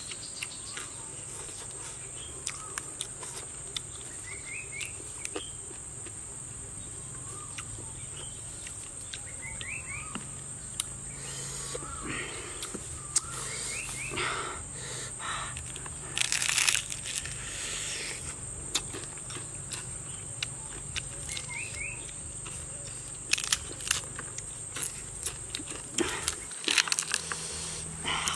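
A steady high insect drone with short bird chirps now and then, over the close crunching, smacking and chewing of a person eating roasted frog, with clicks all through and louder bouts about halfway and near the end.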